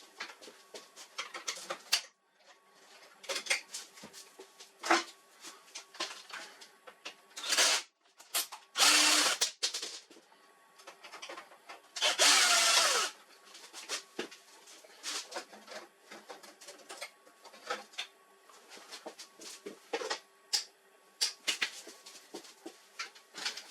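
Two short bursts of a power screwdriver, about a second each, with a falling pitch as the second one winds down. Around them come scattered clicks and knocks of plastic and metal printer parts being handled while a laser printer is taken apart.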